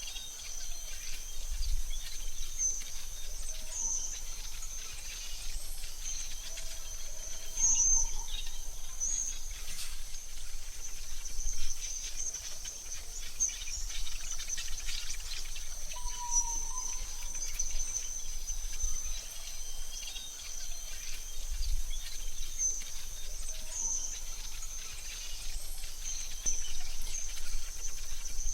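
AI-generated forest ambience: a steady, high insect trill runs throughout, with a few short bird chirps and warbles here and there and a faint low rumble underneath.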